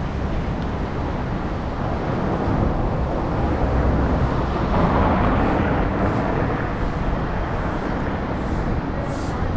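Street traffic noise and low wind rumble on the microphone while riding; the traffic noise swells about halfway through.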